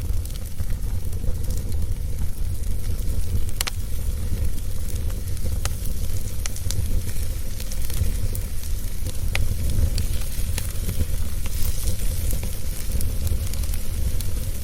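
Campfire burning: a steady low rumble and hiss with scattered sharp pops and snaps of crackling wood.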